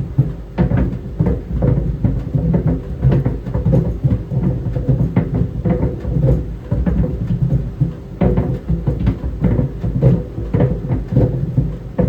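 Tennis balls tumbling in a running clothes dryer: irregular thuds of the balls hitting the drum, a few a second, over the steady hum of the dryer.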